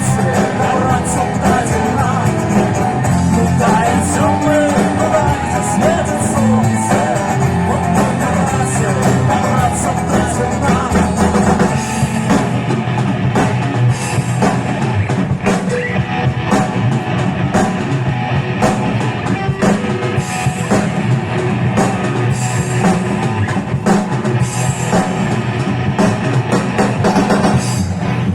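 Live rock band music from a vocal-instrumental ensemble: drum kit and electric guitar playing a steady song, with some singing.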